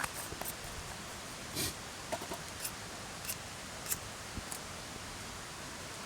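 Light clicks and knocks of camp cookware being handled, about eight of them over the first four and a half seconds, over the steady rushing hiss of a mountain stream.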